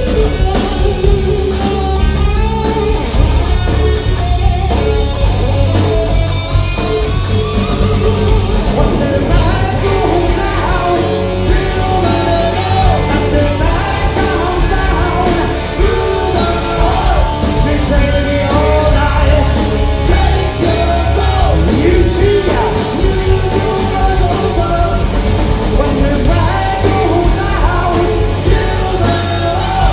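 Live rock band playing loud, with electric guitar over bass and drums.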